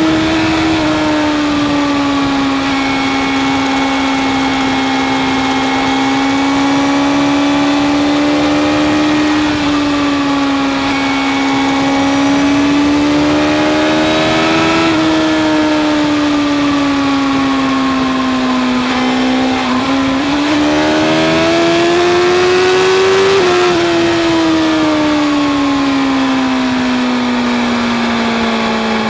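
BMW S1000 RR inline-four engine through an Akrapovic exhaust, running at high revs at motorway speed, its pitch drifting gently up and down with the throttle. About twenty seconds in the pitch dips briefly, then climbs for a few seconds before easing slowly back down, over a steady rush of wind noise.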